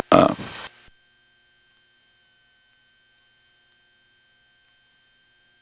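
A high electronic tone that dips and then glides upward, repeating about every second and a half, over a faint steady high whine, with no engine sound coming through.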